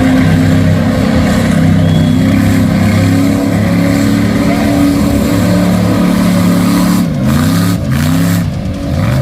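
Mud bog truck's engine running hard at high revs. Near the end its pitch rises and falls several times as the throttle is worked.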